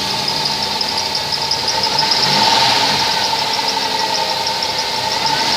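2005 Dodge Grand Caravan engine idling steadily just after starting, with a steady whine and a fast, even ticking over the engine note.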